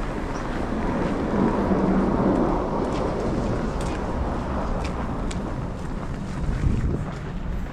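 Blustery snowstorm wind rushing over the microphone, mixed with city street traffic. A vehicle passes, swelling louder from about one to three seconds in, and a few light clicks follow.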